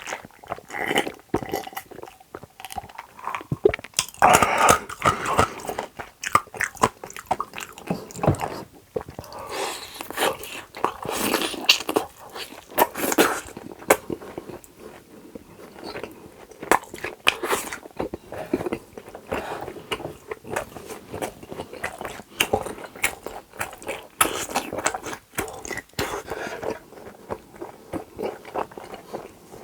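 One person chewing and biting food close to the microphone, with many short sharp clicks and mouth noises at an irregular pace.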